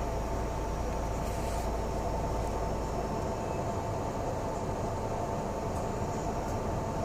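Cabin noise inside a double-decker city bus under way: steady engine and road rumble with hiss and a constant high hum. The deepest rumble eases a little about three seconds in.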